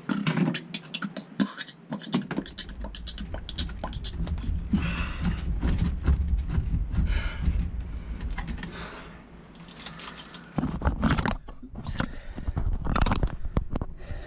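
Scraping, rustling and irregular clicks from hands and tools working on the wiring and parts inside an air handler, with a low rumble of handling noise through the middle and a few sharper knocks near the end.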